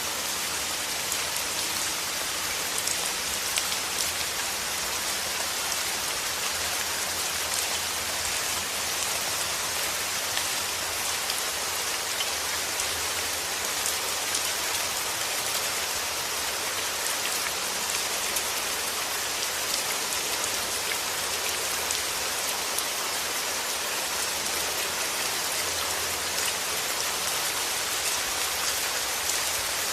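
Steady rainfall: an even hiss of rain with scattered drops ticking on a surface, no music.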